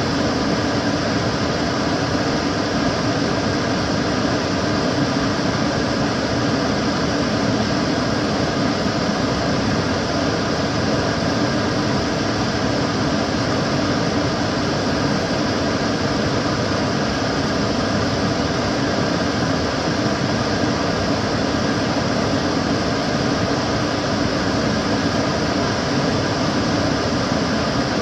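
Kitchen cooker hood extractor fan running steadily, an even whooshing air noise with a low hum and faint steady tones.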